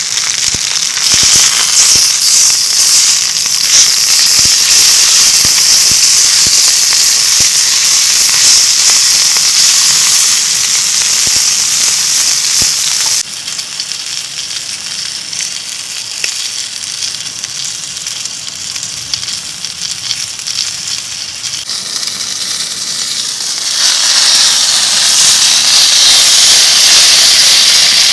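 Loud, dense crackling and sizzling at a campfire. It drops abruptly about thirteen seconds in and swells again near the end.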